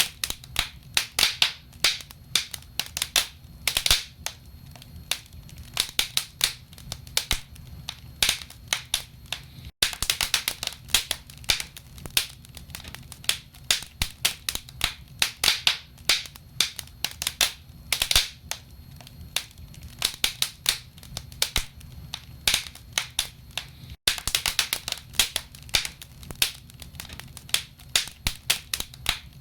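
Wood fire burning in a fireplace: logs crackling with frequent sharp pops at irregular intervals over a low steady background. The sound cuts out for an instant twice.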